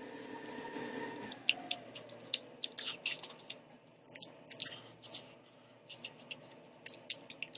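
Close-miked eating sounds: a quick run of wet clicks and smacks from chewing and slurping noodles, with two brief high squeaks about four seconds in. A steady hum stops about a second in.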